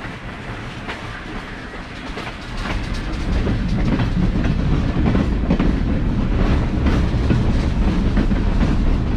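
Passenger train coach rolling along the track: steel wheels clicking over the rails over a low rumble, which grows louder about three seconds in.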